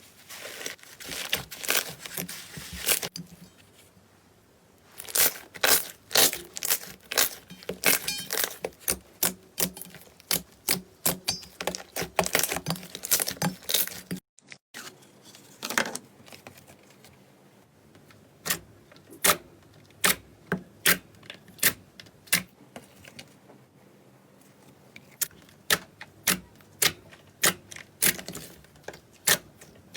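Slime being squeezed and pressed, giving many sharp popping clicks, dense and clustered in the first half; after a brief break about halfway the pops come in a slower, more even series.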